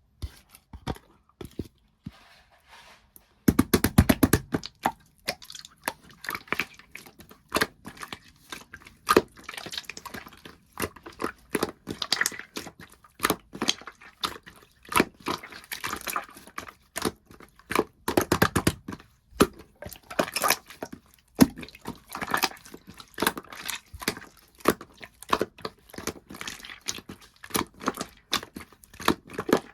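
Light-green aloe clear slime being squished and stretched by hand, giving a stream of sticky wet clicks and pops, with a denser burst of squelching about four seconds in.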